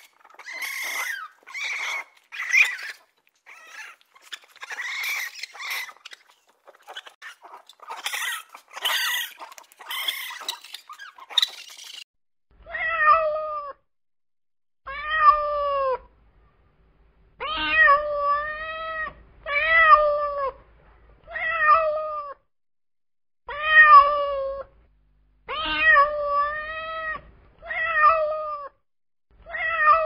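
Raccoons chittering and squealing in short, high, scratchy bursts for about the first twelve seconds, then a domestic cat meowing over and over, about eleven drawn-out meows a second or two apart.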